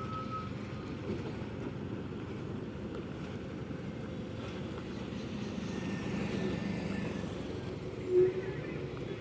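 Heavy truck running steadily with a continuous low rumble, and a short, loud tone about eight seconds in.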